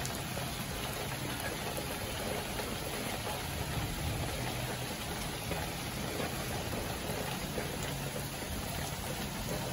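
Steady heavy rain falling, an even hiss with no breaks, over a faint low hum.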